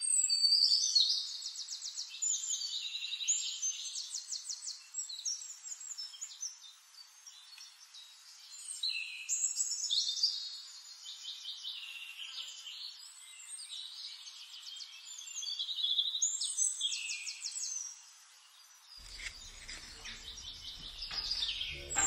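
Birds singing: many overlapping chirps, rapid trills and sliding whistles. Some faint low noise comes in near the end.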